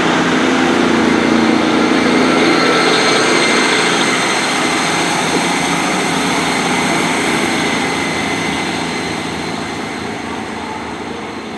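Class 150 Sprinter diesel multiple unit pulling out of the station, its diesel engines working under power. The sound is loudest in the first few seconds, then fades steadily as the train moves away.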